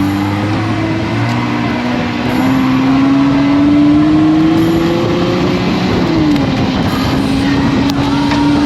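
Jeep Gladiator Mojave's V6 engine accelerating under throttle on a rough trail. Its pitch climbs for several seconds, drops about six seconds in as the transmission shifts up, then holds steady.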